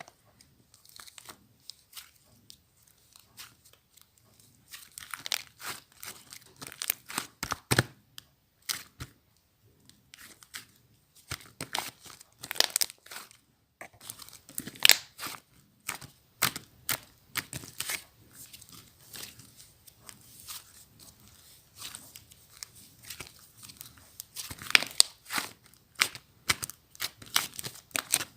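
Hands pressing and stretching slime, making a string of irregular sticky pops and crackles, busier in short spells.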